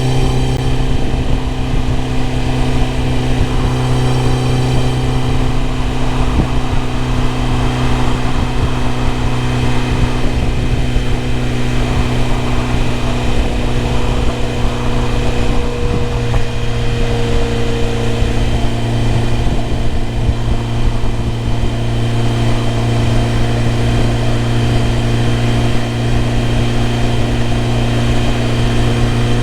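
BMW E30 M3's four-cylinder S14 engine idling steadily, with an even, unchanging note.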